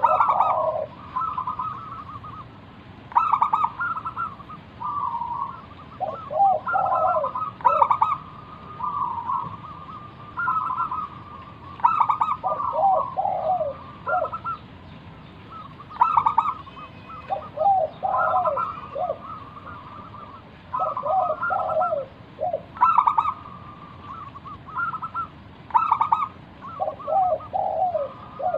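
Zebra dove (perkutut) cooing: bursts of short, rapid coo notes in repeated phrases a few seconds apart, some notes dropping in pitch.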